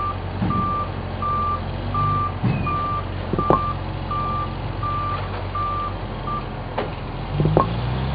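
Electronic toy beeping, a short single tone repeating about every two-thirds of a second like a reversing alarm, stopping about six seconds in. Clicks and clatter of plastic Duplo pieces being handled come through alongside.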